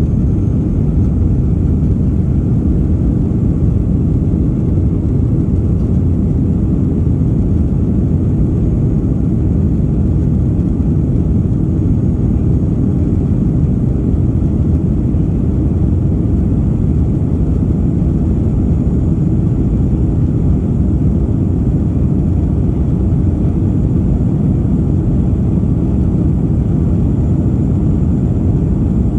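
Steady low rumble inside an airliner's cabin in flight: engine and airflow noise, with a faint high whine above it.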